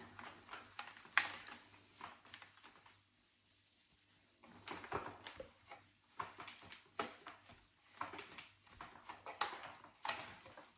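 Faint handling sounds of a plastic Shark vacuum brush attachment being wiped out inside: scattered light brushing strokes and small taps, with a sharper click about a second in.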